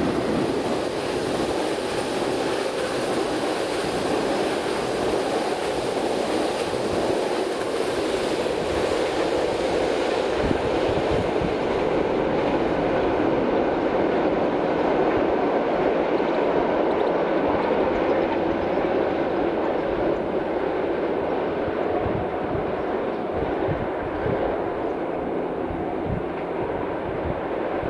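A train running away along the line: a steady rolling noise of wheels on rail. Its higher hiss fades from about halfway through as the train draws off.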